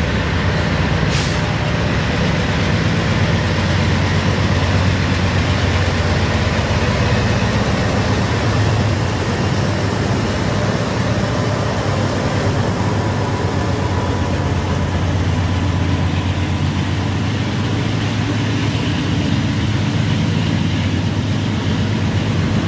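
Diesel locomotives of a BNSF double-stack container train passing close by, a loud steady low engine rumble, followed near the end by the double-stack container cars rolling by over the rails.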